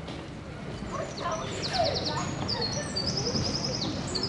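Birds singing outdoors: rapid trills and quickly repeated high notes starting about a second in, with a lower call among them, over a steady low background hum.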